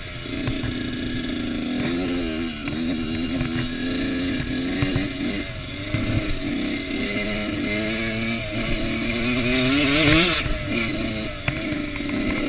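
Kawasaki KX85 two-stroke motocross engine revving up and dropping back again and again as the bike accelerates and shifts, loudest about ten seconds in.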